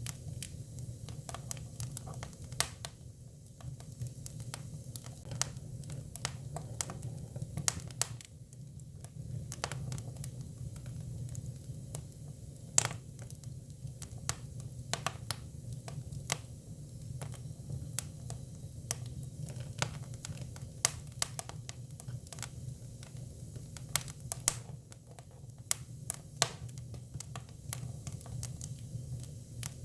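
Hinoki (Japanese cypress) firewood burning, crackling with many irregular sharp pops over a steady low hum.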